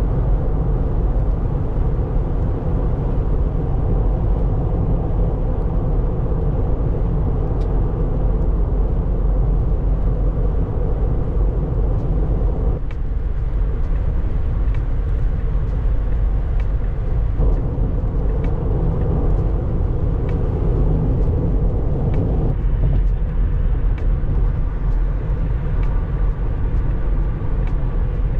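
Steady rumble of road and tyre noise from a car being driven, changing slightly in tone twice along the way.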